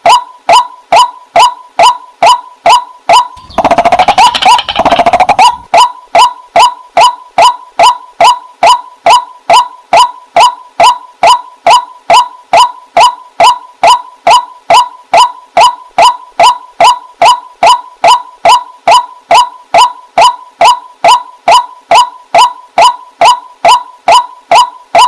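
Waterhen calling: a short note repeated at an even pace, a little over twice a second, with a louder, harsher burst of calling about four to six seconds in.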